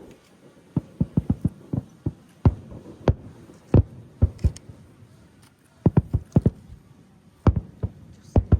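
Fireworks shells bursting in the sky: a rapid, irregular string of sharp booms, some in quick clusters, heard from a distance.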